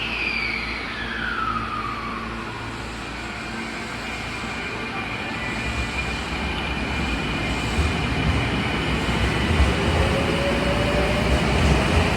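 Sanyo Electric Railway train pulling away from a station. A high electric tone falls in pitch over the first couple of seconds, then a steady whine rides over a low wheel rumble that grows louder through the second half, with sharp clacks. A rising motor note near the end marks the train gathering speed.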